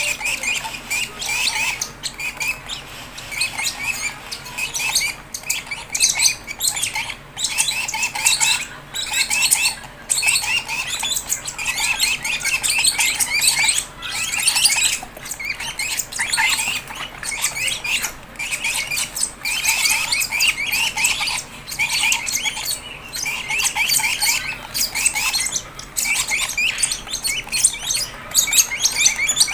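Fischer's lovebirds chirping and squawking in a rapid, nearly continuous stream of high, scratchy calls, with brief pauses.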